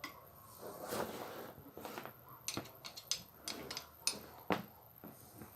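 Scattered light clicks and small knocks of angle grinder parts and a screwdriver being handled while the Makita grinder is taken apart.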